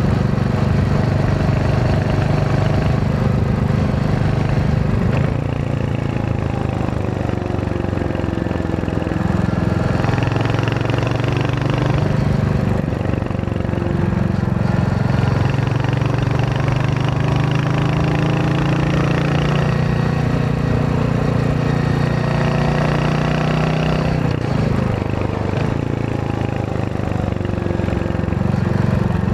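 Royal Enfield Hunter 350's single-cylinder 349 cc engine and exhaust under way on the road, its note dropping and climbing again a few times with throttle and gear changes.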